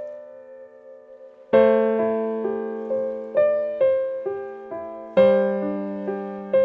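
Slow, gentle solo piano music: single notes fading out, then full chords about a second and a half in and again about five seconds in, with a melody of single notes between them.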